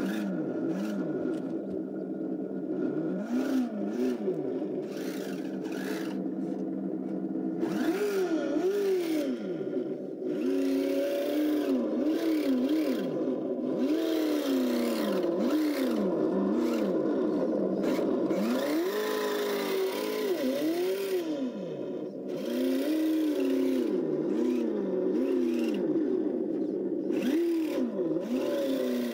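Engine-sound simulator on a 1/12-scale Kyosho Blizzard DX RC snowcat playing a simulated engine through its small speaker, revving up and dropping back over and over as the throttle is worked. Scattered clicks and rattles run under it.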